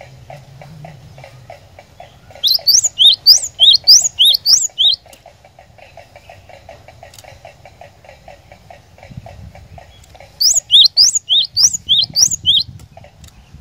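Cinereous tit (glatik batu) singing: two phrases of rapid, repeated rising whistled notes, each about two and a half seconds long, the second starting about eight seconds after the first. A faint, steady pulsing runs underneath.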